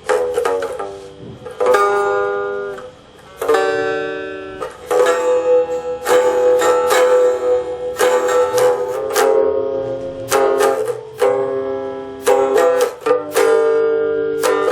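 Homemade three-string box guitar tuned E-B-E, strummed chords ringing one after another with a bright, twangy tone.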